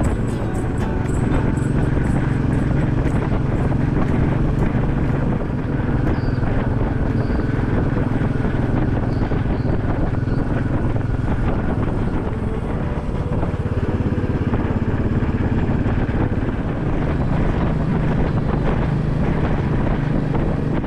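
Royal Enfield Bullet 500's single-cylinder four-stroke engine running steadily while the motorcycle cruises along at an even pace.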